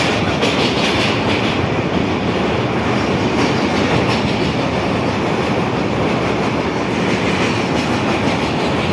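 Passenger train running over a steel truss bridge, heard from an open carriage window: a steady, loud rumble and clatter of the wheels on the rails.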